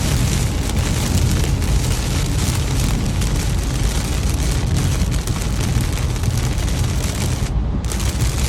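Heavy rain hitting a car's windscreen, heard inside the cabin over the steady low rumble of the car driving at motorway speed. The high hiss of the rain drops out for a moment near the end.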